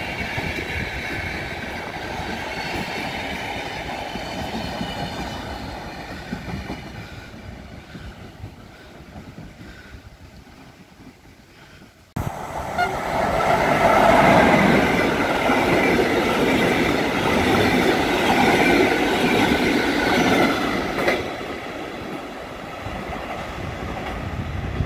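A passenger train rumbles past on the rails and slowly fades away. After an abrupt cut, a much louder train sound takes over, with steady high tones above the rumble for several seconds before it eases off.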